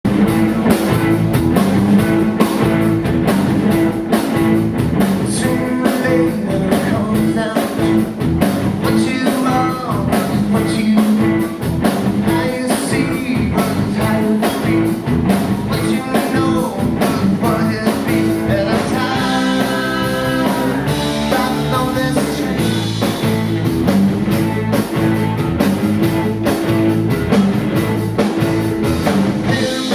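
A band playing a rock song live.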